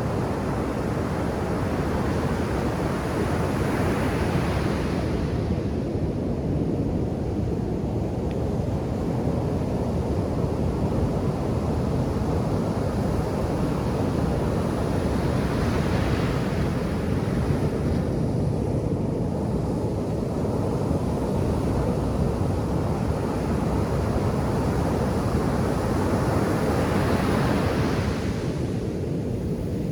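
Ocean surf breaking on a sandy beach: a continuous low rumble, with a wave washing in three times, about four seconds in, near the middle and near the end.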